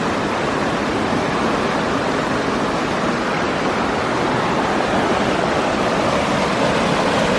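Steady, even rush of flowing and falling creek water.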